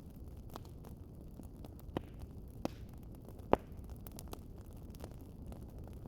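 Wood fire crackling in a fireplace: a low steady rumble with scattered sharp pops, the loudest about three and a half seconds in.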